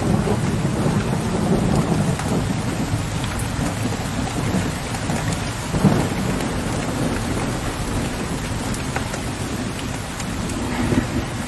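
Steady rain falling on a window ledge, with low rolling thunder rumbling in the distance, strongest in the first few seconds and again near the end. A short, louder hit stands out about six seconds in.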